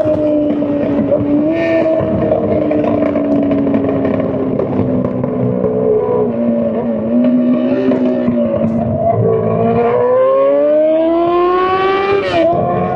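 Straight-piped Honda CBR600 inline-four running at high revs. The pitch sags slowly, climbs steadily from about ten seconds in, and drops sharply near the end.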